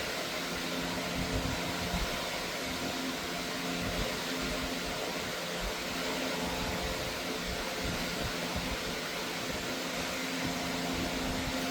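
Steady mechanical hum and whoosh of machinery running in a dyno cell, with a few faint steady low tones and no revving.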